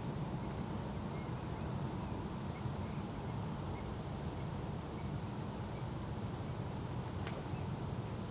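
Steady, low outdoor background rumble with faint short high bird calls every second or so.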